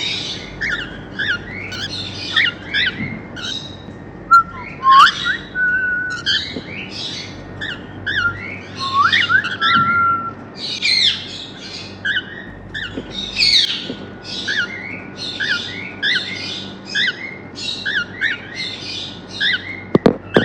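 A pair of normal grey cockatiels chirping in quick, continuous short calls, with rising whistled notes that level off into a held tone about four and nine seconds in. A sharp knock sounds at the very end.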